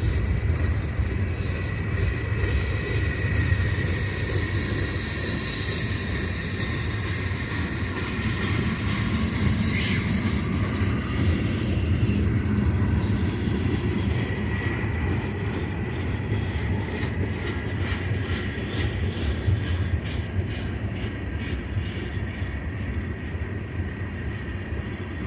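Freight train rolling past: a steady rumble of wheels on rail, with many quick clicks and a thin high squeal over it.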